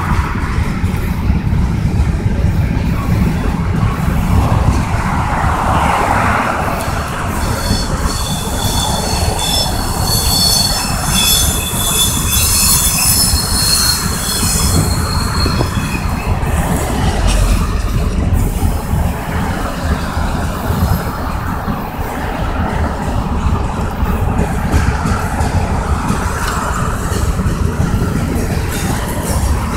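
Kansas City Southern de México freight train of covered hopper cars rolling past with a steady rumble of wheels on rail. From about a quarter of the way in until a little past halfway, the wheels squeal high-pitched.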